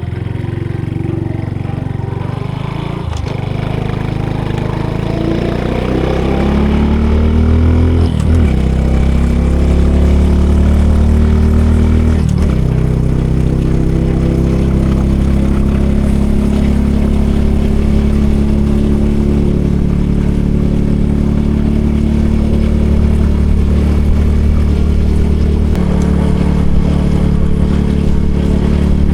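Honda Super Cub C125's 125 cc single-cylinder four-stroke engine through a Yoshimura GP-MAGNUM Cyclone exhaust, accelerating while riding. The pitch climbs and drops back at each upshift, about three times in the first dozen seconds, then it cruises at a steady speed.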